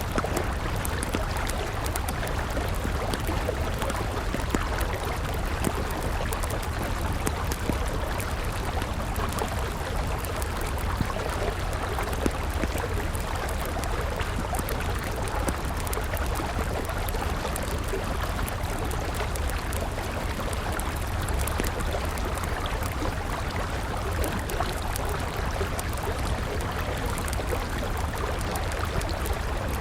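A river flowing steadily, with a wood campfire crackling alongside it in frequent small, sharp pops.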